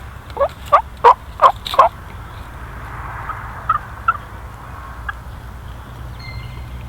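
Turkey yelping: a run of five loud, evenly spaced notes about a third of a second apart, then two fainter notes a couple of seconds later.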